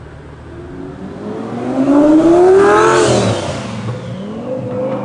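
Car engine revving hard, climbing in pitch to a peak about three seconds in, dropping back, then starting to climb again near the end.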